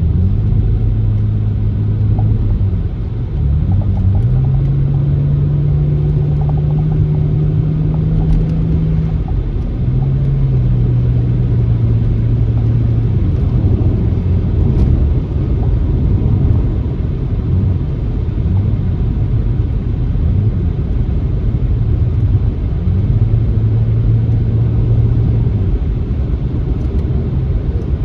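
Car driving along a country backroad: a steady low road rumble, with the engine note climbing about four seconds in, holding, dropping back about ten seconds in, and rising and falling again near the end.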